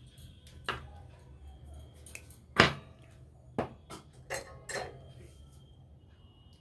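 Several sharp clicks and clatters of small metal tools and parts being handled on a workbench. The loudest comes about two and a half seconds in, with others about a second apart.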